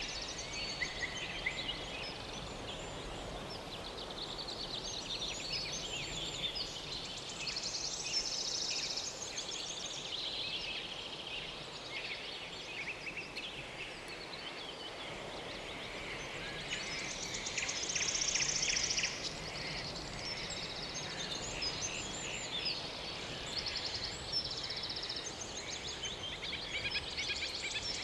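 A dense chorus of high animal calls: many short chirps and pulsing buzzes, over steady background noise, loudest about two-thirds of the way through.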